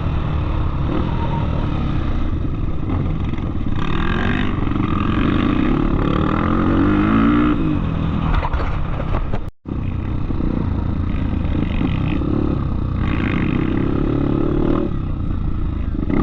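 Off-road motorcycle engine running and revving up and down under way, its pitch rising and falling over a steady low rumble. The sound drops out for a moment a little past halfway.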